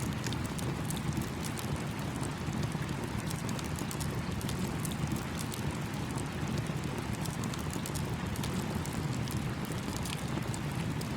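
Campfire crackling, with many small sharp pops scattered irregularly, over the steady rush of a babbling stream.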